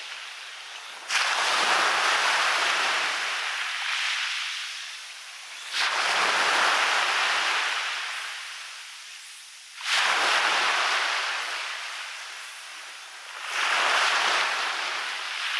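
Sea waves breaking on a beach, four times about four seconds apart. Each wave comes in suddenly and then fades away as a long hiss; the last one builds more gently.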